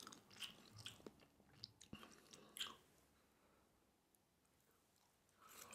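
Faint chewing of a pan-fried rice roll, a few soft clicks in the first two and a half seconds, then near silence.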